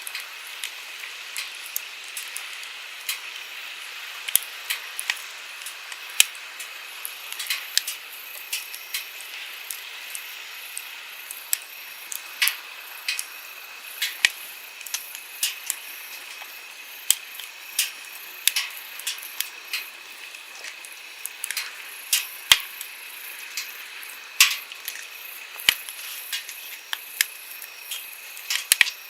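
Wood campfire crackling, with frequent irregular sharp pops and snaps of varying strength, over the steady hiss of a flowing stream.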